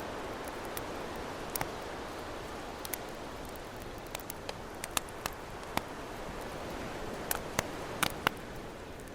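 Wood campfire crackling, with scattered sharp pops that come more often in the second half, over a steady wash of ocean waves.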